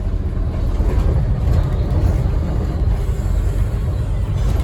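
Interior running noise of a Scania N270UD OmniCity double-decker bus under way: a steady low rumble from its rear-mounted diesel engine and drivetrain, mixed with road and body noise.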